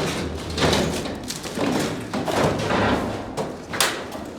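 A series of irregular knocks, thuds and scuffs, with one sharp click near the end.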